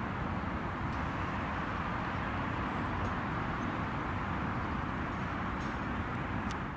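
Steady outdoor ambience: a constant wash of distant city traffic noise, with a few faint clicks.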